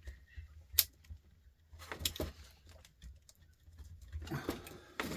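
A few sharp clicks and light knocks of a screwdriver and a sander's casing being handled, the loudest about a second in, over a faint steady low hum.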